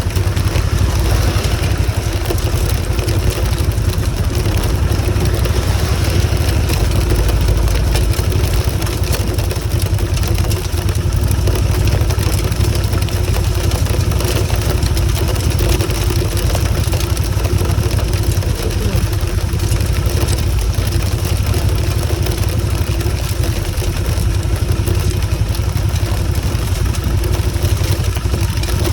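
Motorcycle engine running at a steady pace while being ridden, under a heavy, even low rumble.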